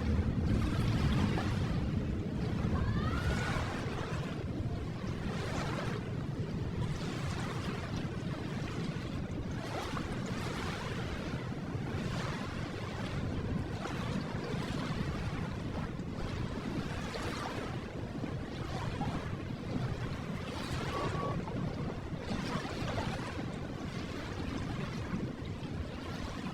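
Ocean waves washing steadily onto a shore, each swell rising and falling every couple of seconds. A brief faint rising tone sounds about three seconds in.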